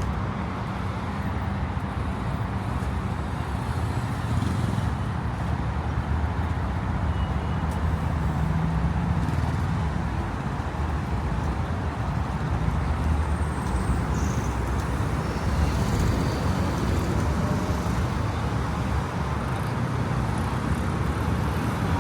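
Steady city traffic noise: a continuous low rumble of passing cars.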